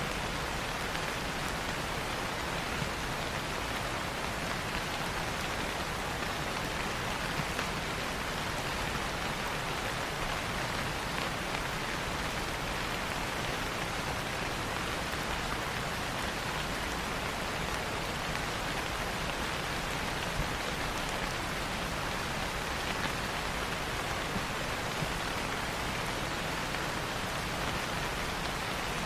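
Steady rain falling: an even hiss, with a few faint pops now and then.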